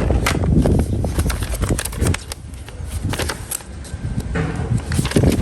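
Cardboard box and packaging being handled and opened: irregular rustles, clicks and light knocks, with a low rumble of handling noise.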